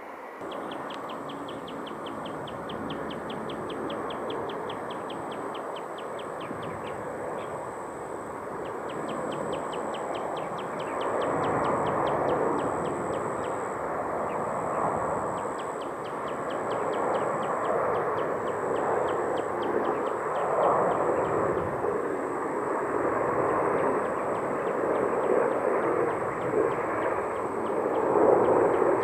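Jet airliner engines running and growing gradually louder as the aircraft nears, with a steady high whine above them. A rapid run of high chirping ticks rides on top for the first several seconds and again briefly after that.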